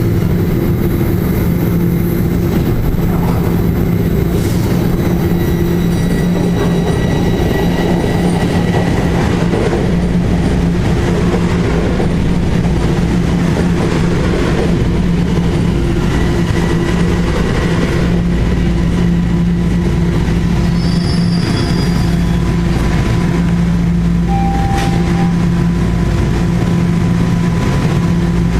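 TTC subway train running through the station, a loud steady hum from the train with thin high-pitched wheel squeals that come and go.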